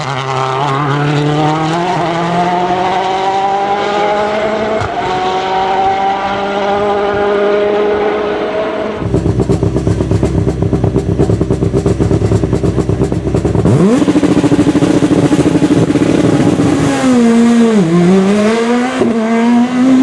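World Rally Cars' turbocharged 1.6-litre four-cylinder engines at full throttle, the pitch climbing slowly for about nine seconds. Then a sudden change to a rapid crackling engine note, a sharp rise in revs, steady high revs, and a dip and recovery in pitch near the end.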